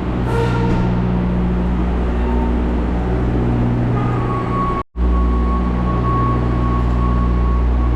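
Truck engine idling: a steady low hum that cuts out for an instant a little past halfway, then carries on.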